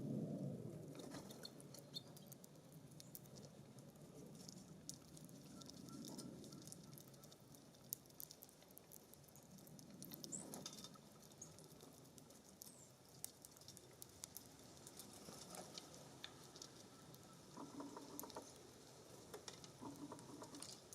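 Faint, scattered ticks and taps of small birds pecking and landing at a feeder, over low swells of wind rumble on the microphone.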